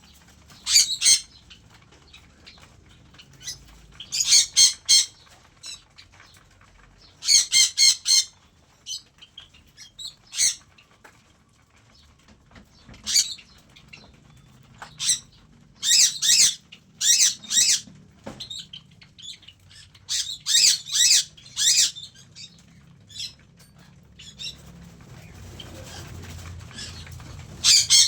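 Aviary birds calling in bursts of sharp, high-pitched squawks, several quick notes at a time, with wing flapping.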